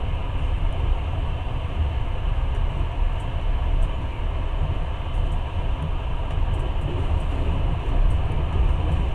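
Passenger train running at speed: a steady, low rumble of the carriage rolling on the rails.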